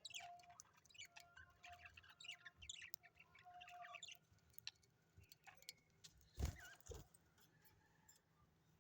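Faint, busy chirping of small birds for the first four seconds or so, then a dull thump, the loudest sound, about six and a half seconds in.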